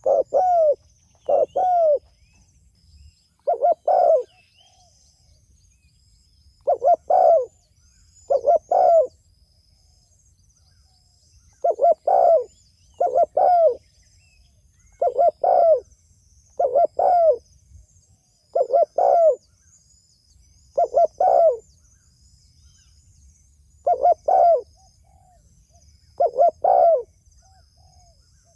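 Spotted dove (tekukur) cooing: loud short coos, mostly in pairs, repeated every couple of seconds in a steady series. Smaller birds chirp faintly in the background.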